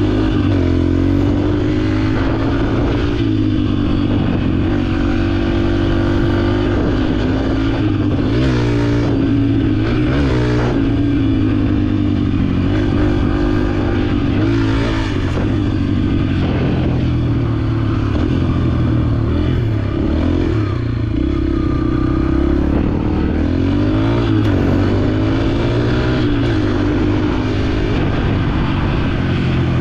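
Dirt bike engine running while riding a trail, its pitch rising and falling with the throttle, with quick revs about nine and eleven seconds in and again near the end.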